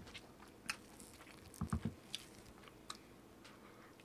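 Close-miked eating: a person chewing and biting crisp food, with scattered sharp crackles and a few soft low thumps about halfway through.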